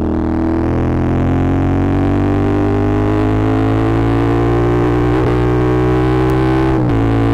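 CF Moto 450SR-S parallel-twin engine pulling steadily, its pitch rising slowly for most of the run, then dropping suddenly near the end with a gear change.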